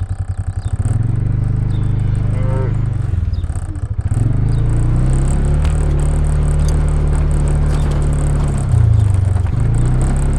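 A vehicle engine running under way, picking up about a second in, easing briefly around three seconds, then picking up again and holding steady.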